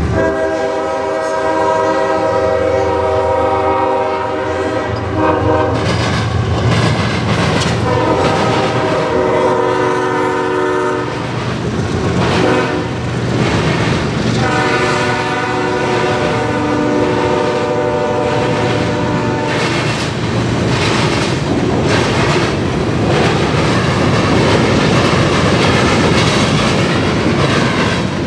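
CSX freight locomotive horn sounding three long blasts, with the rolling noise of a train of covered hopper cars in between. From about 20 s the horn stops and the cars keep rolling by, their wheels clacking over the diamond crossing.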